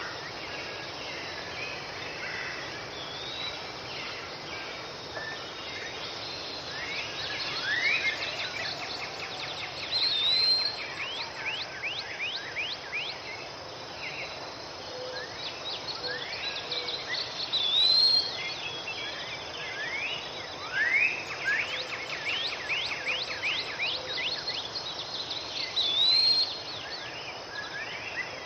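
Songbirds singing: a song with rising sweeps and quick trills that ends in a short curved whistle, repeating about every eight seconds, over a steady hiss.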